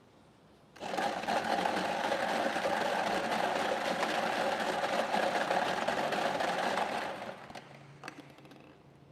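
Electric lottery ball draw machine running: a steady whirring with a dense rattle of numbered balls being mixed. It starts about a second in and dies away after about six seconds.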